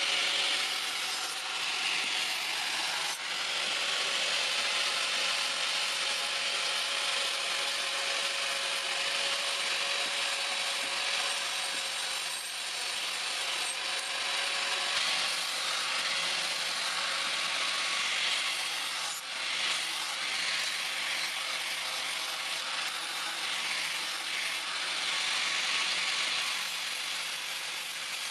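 Steady abrasive grinding of the steel for a pair of hand-forged scissors, with no separate hammer blows. A continuous rasping hiss runs throughout over a faint steady motor tone.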